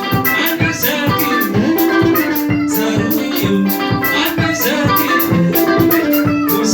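Live band music with a steady beat: percussion strokes under sustained instrumental notes.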